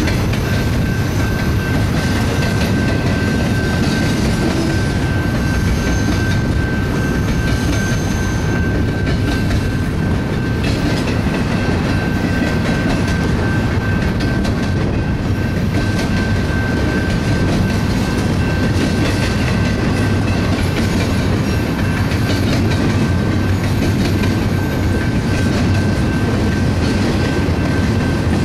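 BNSF double-stack container train rolling past: a steady, loud rumble of freight car wheels on the rails with light clicking. A thin, steady high-pitched tone rides over it.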